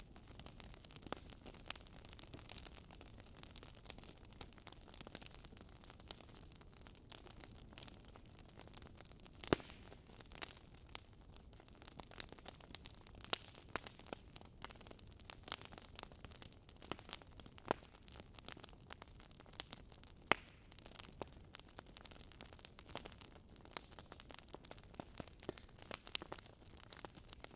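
Wood fire crackling in a fireplace: irregular sharp pops and snaps over a faint steady hiss, with a few louder pops scattered through.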